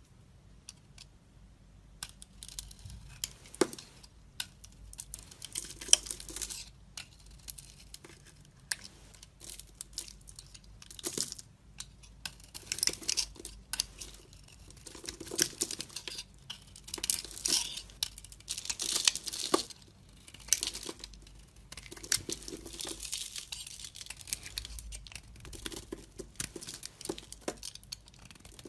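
A knife carving and slicing into a bar of soap, heard as a run of crisp, crackling cutting strokes, each lasting about a second, with a sharp click about six seconds in.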